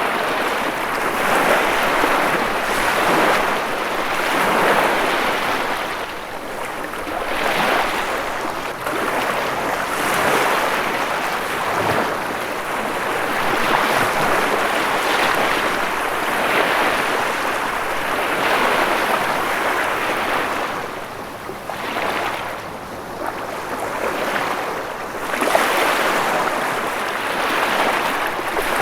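Ocean waves breaking and washing on a shore, a continuous surf hiss that swells and ebbs every few seconds.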